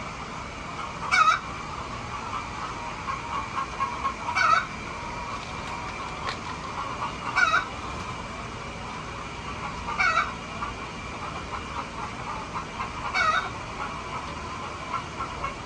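Chickens clucking, with one louder short call repeated five times, about every three seconds, over a steady background of softer clucking from the flock.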